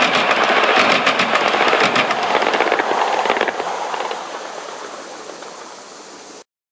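Wheels of a 1/8-scale live steam train clattering in a rapid run of loud clicks over the rail joint where steel bridge rail meets aluminum track. The clatter fades after about three and a half seconds, and the sound cuts off abruptly near the end.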